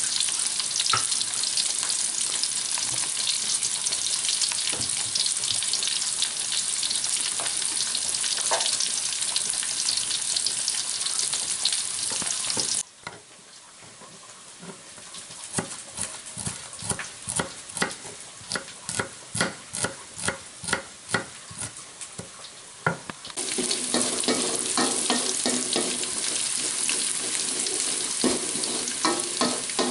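Shallots and green chilies sizzling in hot oil in a wok, stirred with a wooden spatula. About halfway through it gives way to a run of knife strokes slicing shallots on a cutting board, two or three a second, and then the frying sizzle returns.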